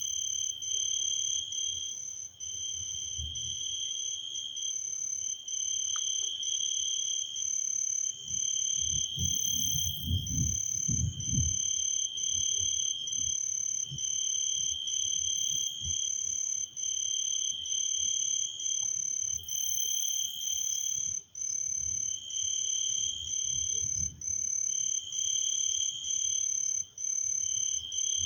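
Night chorus of frogs and insects: a high call in long pulses of about a second, over a higher call pulsing about twice a second, with a low rumble about ten seconds in.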